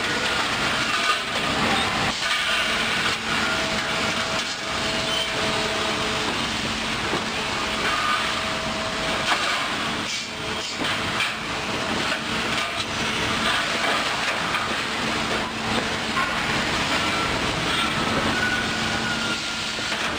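Steady din of machinery running, with scattered knocks and clanks and a few faint held tones.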